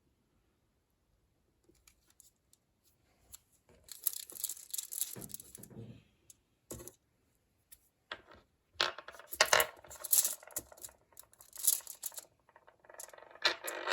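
Several bursts of scraping and rustling from small parts being handled at a workbench, beginning about four seconds in after a near-silent start, with a few sharp clicks between them.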